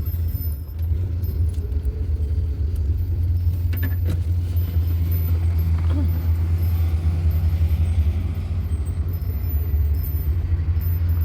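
Steady low rumble of a van's engine and road noise heard from inside the cabin while driving, with a couple of light clicks about four seconds in.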